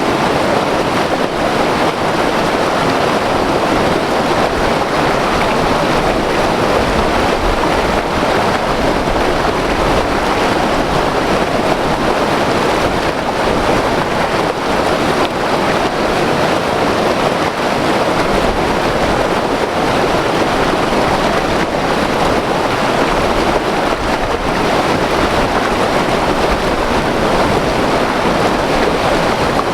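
White water river rushing over rapids: a loud, steady roar of turbulent water with no letup.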